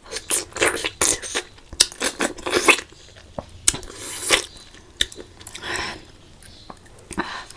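Close-miked eating: wet chewing and mouth sounds in irregular short bursts, with a few sharp clicks.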